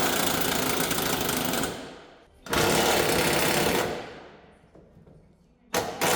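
Impact wrench hammering in bursts: one of about two seconds at the start, another from about two and a half seconds in lasting about a second and a half, and a short one near the end, each tailing off when it stops.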